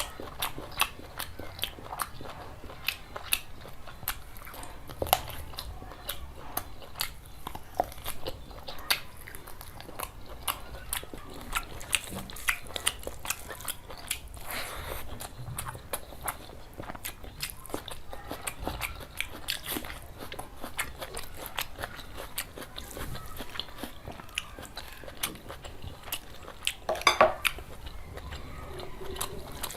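Close-miked chewing and biting of curry with rice, full of small irregular wet clicks and crunches. A brief louder sound with a pitch to it comes near the end.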